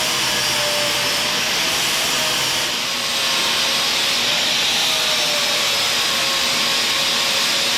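Angle grinder grinding weld beads smooth on steel angle iron, a steady, even grinding hiss that eases briefly about three seconds in.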